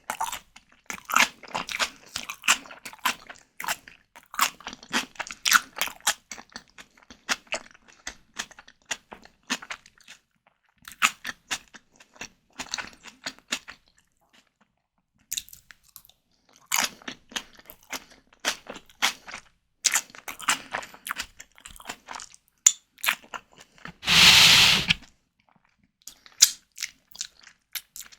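Close-miked chewing of white tiger prawns, with irregular clusters of short wet mouth clicks and a brief pause about halfway through. Near the end comes a louder burst of noise, about a second long.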